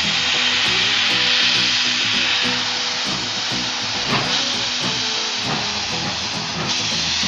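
Steam locomotive letting off steam: a loud, steady hiss that comes on suddenly, with background music underneath.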